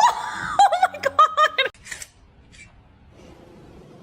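A person laughing in a quick run of high-pitched giggles, over within the first two seconds.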